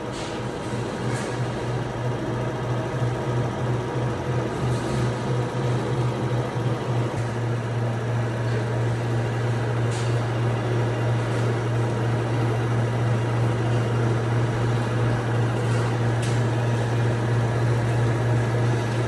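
A machine running steadily with a loud, low hum, and a few faint clicks.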